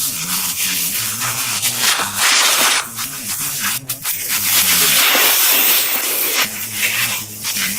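Pressure washer spraying water, a loud hiss that surges and eases several times, over a low wavering hum.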